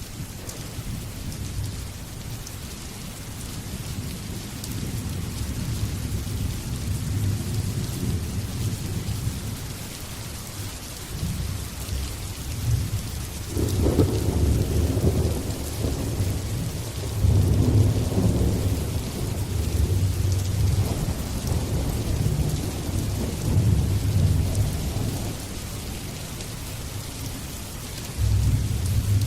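Steady rain with rolling thunder: long low rumbles swell and fade under the hiss, the loudest about 14 and 18 seconds in, with another building near the end.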